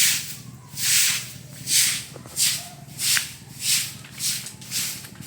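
Water sloshing back and forth in a container, set swinging by an earthquake jolt: a steady rhythm of splashy swishes, about three every two seconds.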